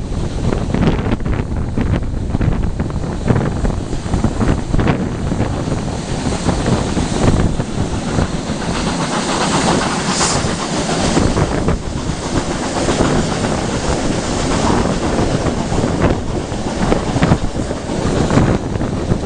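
Running noise of a moving train, with wind rushing and buffeting the microphone and scattered knocks from the wheels and carriage.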